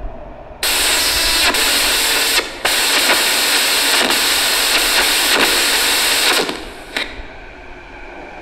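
A Canada Line train pulling into the underground platform: a loud, even rushing hiss starts suddenly about half a second in, dips briefly, and cuts off after about six seconds. A steady whine of several tones follows near the end.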